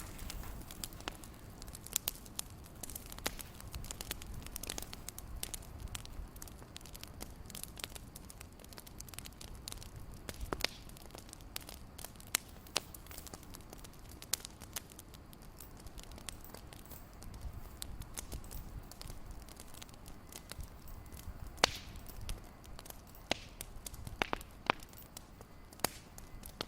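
Wood fire crackling in a fireplace: irregular sharp pops and snaps over a soft low rumble, with a few louder snaps now and then.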